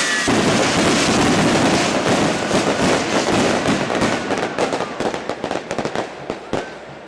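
Fireworks crackling: a dense volley of rapid pops and cracks that thins out into scattered bangs and fades toward the end.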